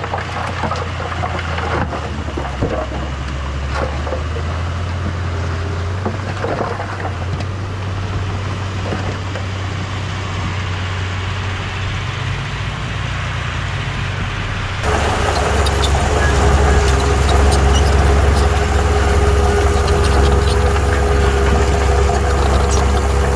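Heavy diesel earthmoving machinery, a bulldozer and dump trucks, running steadily with a low engine hum and some scattered clanks. About fifteen seconds in the sound jumps abruptly louder, with more metallic clatter.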